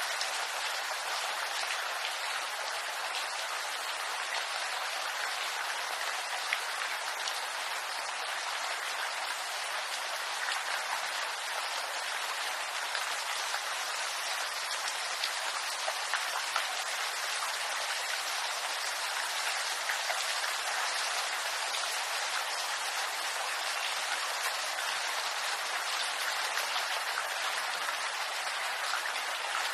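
Steady rain pattering on bamboo leaves, a dense even hiss of drops with an occasional louder drip.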